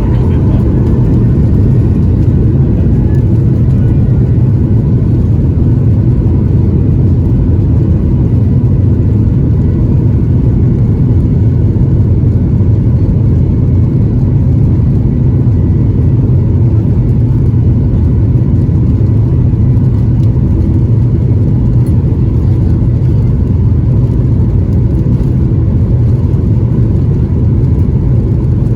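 Boeing 737-800's CFM56 jet engines at high thrust for takeoff, heard from inside the cabin: a loud, steady, deep rumble that holds level throughout.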